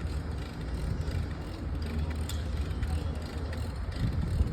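Steady low rumble of a crane's diesel engine running, swelling briefly near the end.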